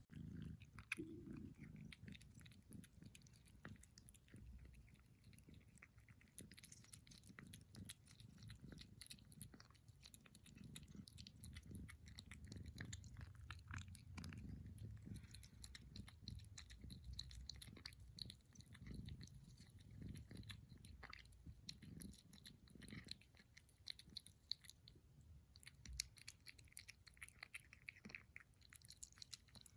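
A kitten eating: a quiet, steady run of quick chewing clicks and smacks.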